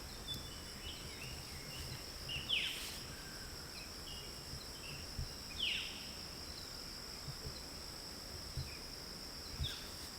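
Night insect chorus with a steady high-pitched trill and scattered small chirps. Three short calls sweep downward in pitch, about three seconds apart.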